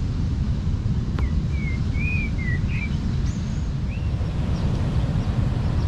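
Steady wind rumbling on the microphone, with a short run of bird chirps starting about a second in.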